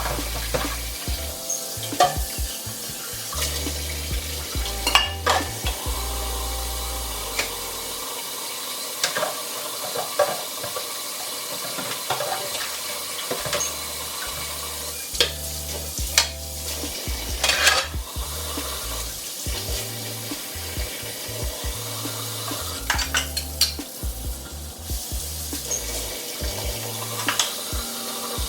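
Dishes, pots and cutlery clinking and clattering as they are handled, in scattered sharp knocks with a few louder clanks.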